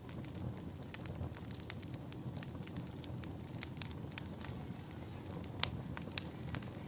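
Wood fire crackling: irregular sharp pops and snaps over a low steady rumble, with the loudest pops a little past the middle.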